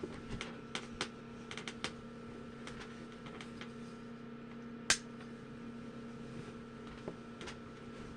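Scattered sharp clicks, about a dozen, with a louder one about five seconds in, over a steady low electrical hum.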